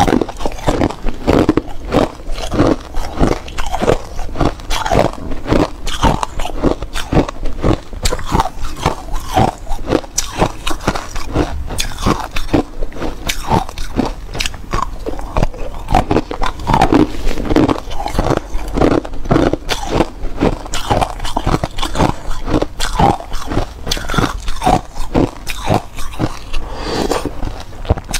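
A person biting and chewing hard clear ice, a steady run of sharp, cracking crunches several times a second.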